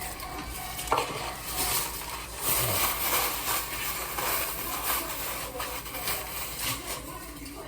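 Kitchen utensils and bowls clinking and scraping on a counter, with a few sharp knocks among the scraping.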